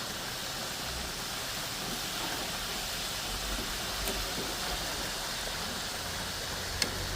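Chicken frying in hot oil: a steady sizzle, with a short click near the end.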